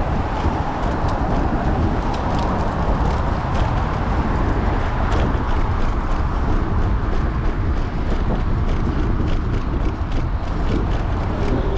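Wind buffeting a bike-mounted GoPro's microphone while riding a fixed-gear bicycle, a steady rushing noise with scattered light clicks.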